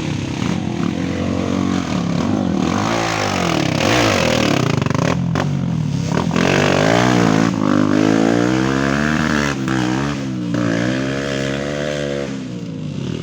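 Off-road trail motorcycle engines revving hard, the engine pitch rising and falling over and over as the throttle is worked.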